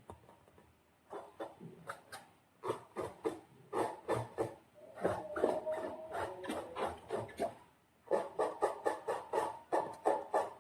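Slime being squished and worked by hand: runs of quick wet, sticky clicks and crackles, broken by a few short pauses.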